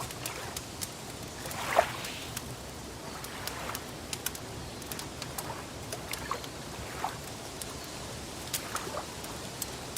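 Wood fire crackling, with irregular sharp pops and snaps over a steady low hiss. Soft water trickling and lapping runs underneath, with one louder watery blip about two seconds in.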